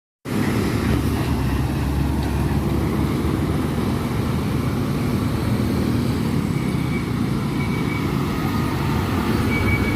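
Roadside traffic with a heavy vehicle's engine running, a steady low rumble that cuts in suddenly from silence just after the start.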